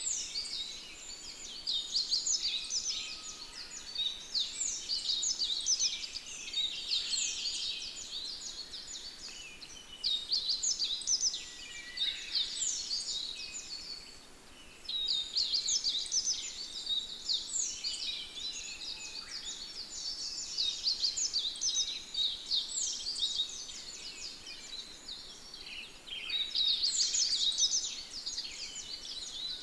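Many small birds chirping together in a dense, busy chorus of quick, high chirps that come in waves, easing off briefly twice before picking up again.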